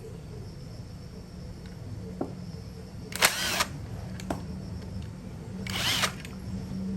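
Two short whirring bursts from a handheld power tool such as a drill or driver, about two and a half seconds apart, over a low steady hum, with a couple of light clicks between them.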